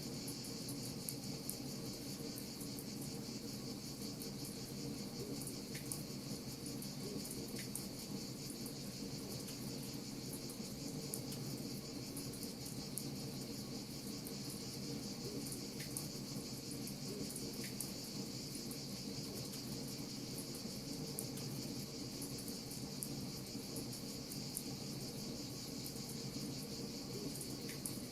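Wood fire crackling, with scattered small sharp pops over a steady high-pitched hiss and a steady low rumble.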